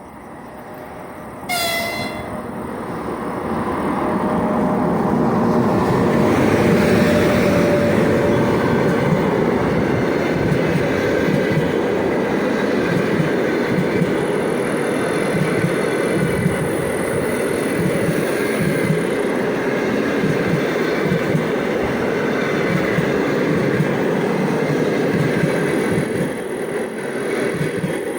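EP1 electric locomotive gives a short horn blast about two seconds in. Then the passing train's wheels rumble and clatter on the rails, building over the next few seconds and staying loud and steady as the cars go by.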